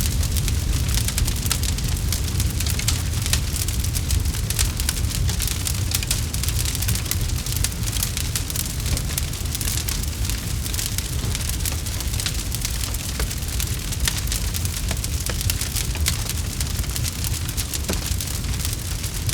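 Campfire crackling steadily, with many small rapid pops over a constant low rumble.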